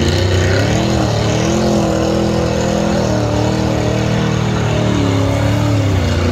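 A car engine revving, its pitch rising and falling several times as the car works through deep mud.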